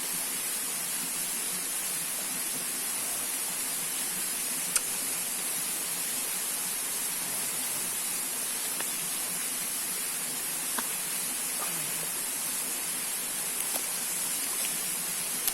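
Steady rush of a waterfall's falling water, with one sharp click about five seconds in and a few fainter ticks later.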